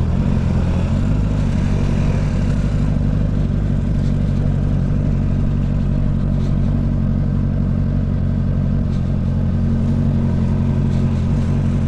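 Honda CB650 inline-four motorcycle engine running steadily at an even speed while riding.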